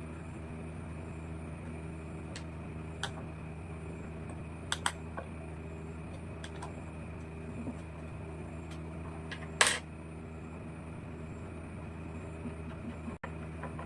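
A steady low hum with scattered light clicks and taps, and one louder short clatter a little under ten seconds in.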